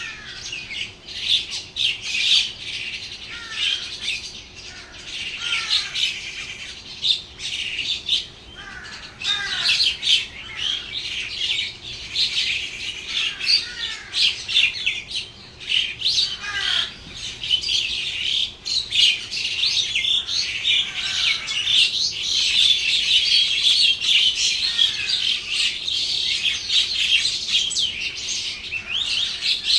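Many small birds chirping and twittering without pause, growing denser in the second half, with a short downward-sliding call repeated about every two seconds.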